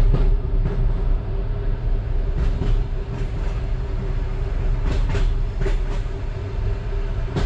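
Moving passenger train heard from inside the carriage: a steady low rumble with a held hum, and the wheels clicking over rail joints in short groups about two and a half and five seconds in.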